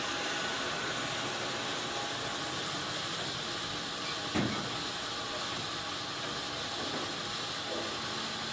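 Sawmill machinery running with a steady hiss and a faint hum, and a single knock about four and a half seconds in.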